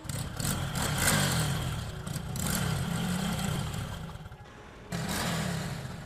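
Motorcycle engine running and being revved, its pitch rising and falling, with a sudden swell about five seconds in.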